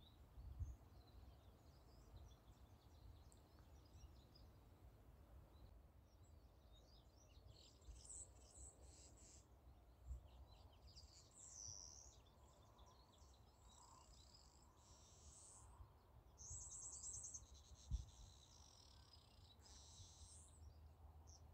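Near silence: faint background ambience with distant birds chirping on and off, and a few soft low thumps.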